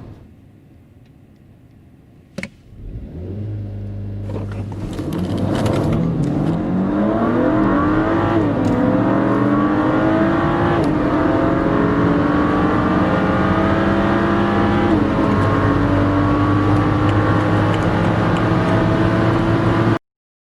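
Car engine sound under full-throttle acceleration from a standstill, the pitch climbing and dropping back at upshifts about eight, eleven and fifteen seconds in. There is a sharp click a little over two seconds in, and the sound cuts off suddenly near the end.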